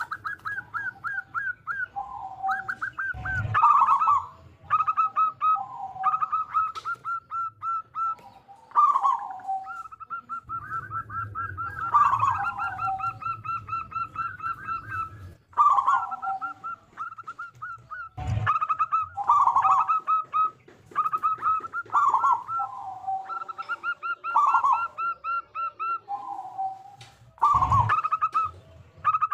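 Zebra dove (perkutut) singing its rhythmic cooing song: phrases of quick, rapidly repeated notes alternating with lower, falling coos, over and over. A few brief knocks come through between the phrases.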